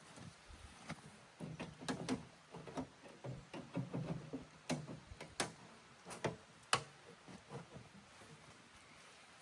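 Irregular sharp clicks and soft knocks, a few dozen scattered unevenly with the loudest about two-thirds of the way through, over low thuds in the middle.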